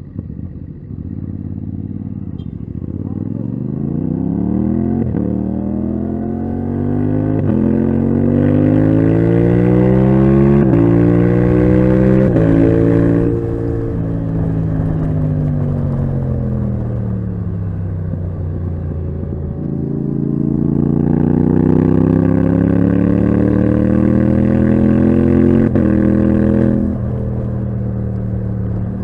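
Yamaha MT-07's parallel-twin engine through a titanium Akrapovic exhaust, pulling hard through several quick upshifts, each a sudden drop in pitch. It then winds down off the throttle for several seconds, climbs again, and backs off sharply near the end, with wind rush during the fast stretches.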